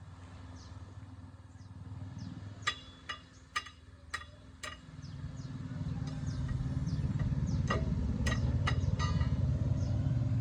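A motor running with a steady low rumble that grows louder about five seconds in, while sharp metallic knocks ring out, a handful in quick succession near the middle and more a few seconds later.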